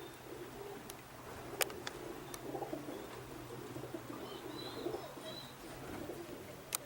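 Domestic pigeons cooing in a low, continuous murmur, with a couple of sharp clicks: one about a second and a half in and one near the end.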